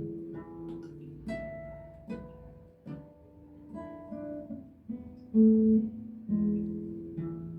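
Acoustic guitar playing an introduction: plucked and strummed chords, each struck and left to ring and fade.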